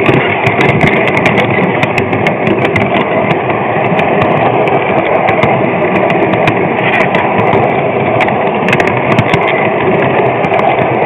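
G-scale model train running along the track: a steady rolling rumble of wheels and motor, with irregular clicks from the wheels on the rails.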